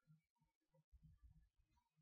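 Near silence, with faint, irregular low soft sounds of someone chewing food.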